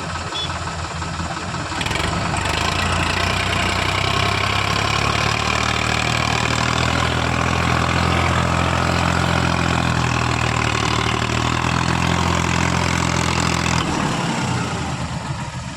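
Sonalika tractor's diesel engine revving up about two seconds in, running hard at high revs for some twelve seconds, then dropping back toward idle near the end.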